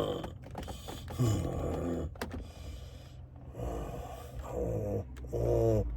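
A man groaning and moaning in pain several times, in strained, falling-pitch vocal sounds with breathing between, the last near the end the loudest, during a flare of nerve pain. A low steady hum runs underneath.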